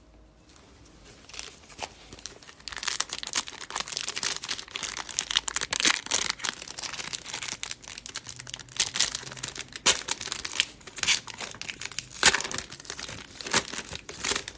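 Foil wrapper of a trading-card pack being torn open and crinkled in the hands, starting about two and a half seconds in and going on with sharp crackles and snaps until near the end.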